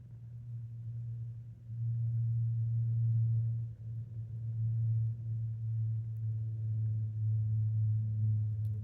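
A steady low hum on one pitch, with a fainter tone an octave above, that grows louder about two seconds in and then wavers in strength.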